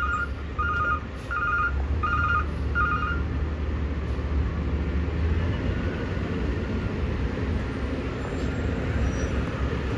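Garbage truck's backup alarm beeping at a steady pace, a little under twice a second, for the first three seconds, over the low, steady rumble of a truck engine, which runs on alone once the beeping stops.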